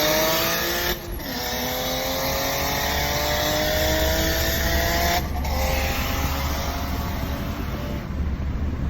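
Turbocharged BMW straight-six engine accelerating hard under full throttle, its note climbing steadily through the gears. Two upshifts break it, about a second in and about five seconds in, and the engine eases off near the end.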